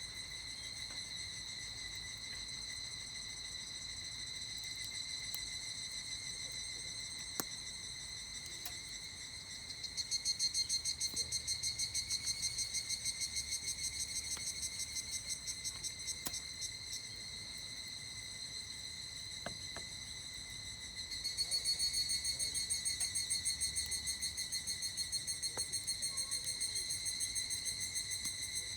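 Higurashi (evening cicadas) calling: two long bouts of rapid, pulsing high-pitched calls, each several seconds long, over a steady high insect buzz, with a few faint sparse crackles from a campfire.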